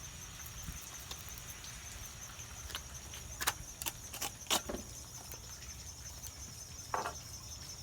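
Crickets trilling steadily over a low machine hum from a neighbour's woodworking shop. A handful of sharp clicks and knocks come about three to five seconds in, and one more near the end.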